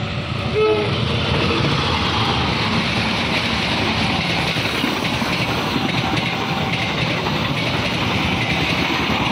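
A passenger train of coaches passing close by on the rails: a steady rumble and clatter of wheels on track.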